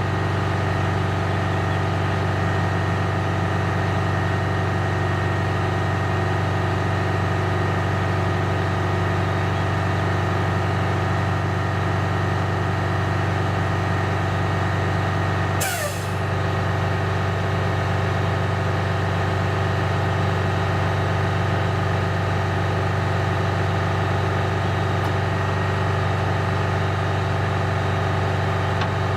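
Heavy truck diesel engine running steadily with a deep, even drone. It is broken once, about halfway through, by a brief sharp burst that sweeps quickly downward.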